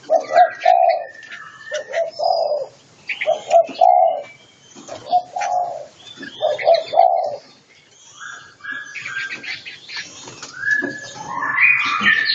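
Doves cooing: about five low phrases, roughly one every second and a half. After that, higher songbird whistles and chirps take over in the second half and get loudest near the end.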